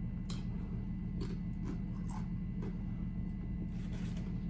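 Chewing a tortilla chip close to the microphone: soft, irregular crunches and mouth clicks over a steady low hum.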